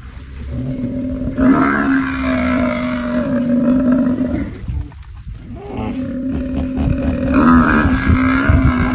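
Buffalo bellowing in two long, steady low moans: the first lasts about four seconds, and the second starts about six seconds in and carries on.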